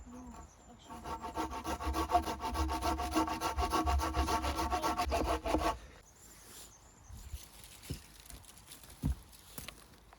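A hand saw cutting through wood, likely firewood for the campfire, in rapid even back-and-forth strokes for about five seconds before stopping. A few faint knocks follow, with one thump near the end.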